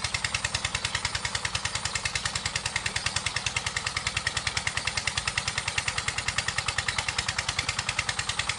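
Small engine running steadily, with a rapid, even beat.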